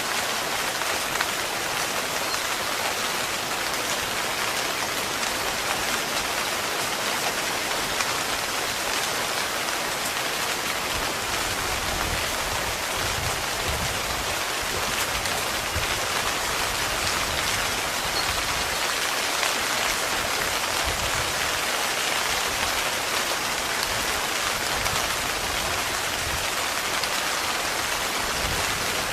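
Heavy rain falling steadily on a tent's fabric, a dense even patter. A soft low rumble rises and fades through the middle.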